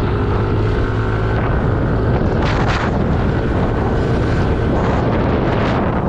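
Motorcycle engine running steadily while riding, with wind rushing over the rider's microphone. About two and a half seconds in there is a brief surge of rushing noise.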